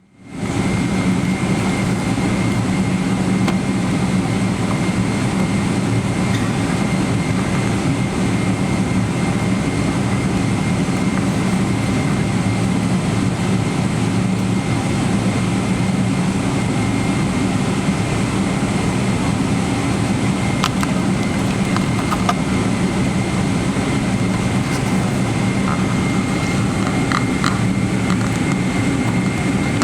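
Boeing 777-300ER's GE90-115B jet engines running, a steady low drone with a thin high tone held over it and a few faint clicks in the last third.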